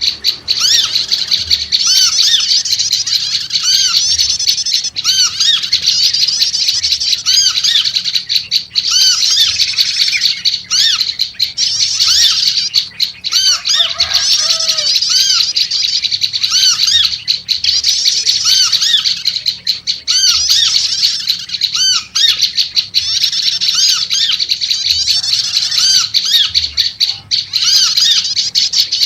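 Prenjak lumut songbirds chattering noisily and without pause in rapid, high, scolding notes. A few lower warbled notes come in about halfway through.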